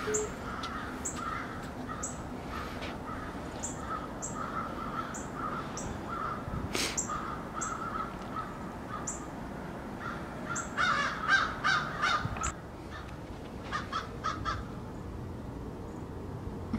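Birds calling: short high chirps repeating about once a second, with a louder run of harsh calls about eleven seconds in.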